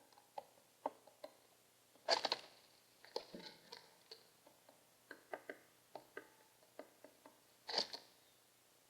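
Light, irregular taps and clicks, about one or two a second, from a pigeon moving about on a hard surface, with two louder rustling bursts about two seconds in and near the end.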